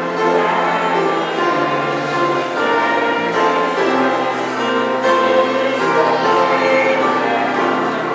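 Church music: a choir singing sustained, slowly changing chords.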